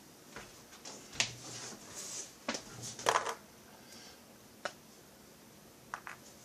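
Handling noise at a workbench: a few sharp clicks and knocks of small parts and tools being picked up and set down, with a short rustle; the loudest knocks come about three seconds in.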